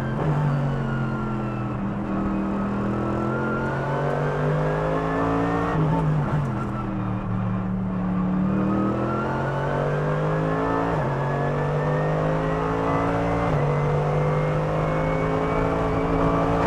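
Onboard sound of a Mercedes-AMG GT3 race car's 6.2-litre naturally aspirated V8 at racing speed. Its pitch falls and climbs with the corners, and it drops sharply on upshifts about 11 and 13.5 seconds in.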